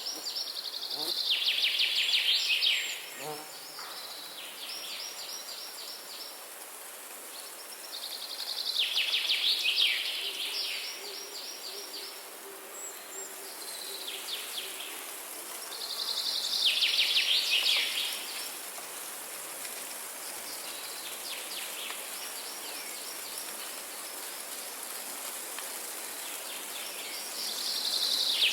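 A songbird singing a loud, rapid trilled phrase that drops in pitch, repeated four times about every eight seconds. Fainter songs from other birds come in between, over a steady background hiss.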